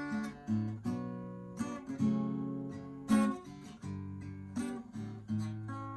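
Acoustic guitar strumming chords, each stroke ringing on: an instrumental passage between sung verses.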